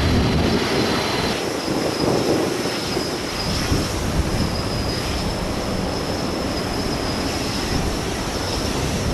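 Airbus A320neo-family airliner's jet engines on approach, a steady loud roar with a high whine over it, while strong gusty typhoon wind buffets the microphone. The sound changes abruptly about a second and a half in, as one aircraft gives way to the next.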